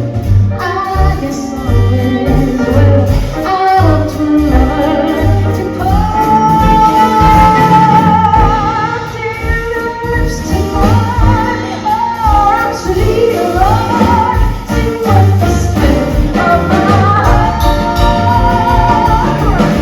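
Live concert performance: a female vocalist singing long held notes with vibrato over a band with bass and drums.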